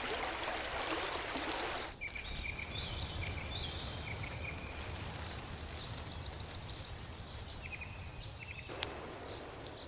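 Swamp ambience: a steady hiss, and from about two seconds in a scatter of short high chirps and rapid high trills from small creatures.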